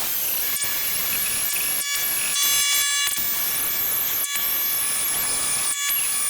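Die grinder running under load, grinding and rounding the edge of a Kubota V2203 exhaust manifold: a steady grinding hiss with a high whine whose pitch dips and recovers again and again as the bit bites into the metal.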